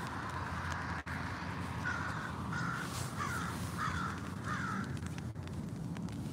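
A bird calling five times in a row, about one call every two-thirds of a second, over a steady low rumble.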